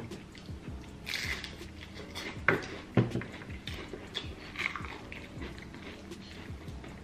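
Close-up chewing and biting into crispy fried food, with short crunches throughout and two loud sharp crunches about half a second apart near the middle.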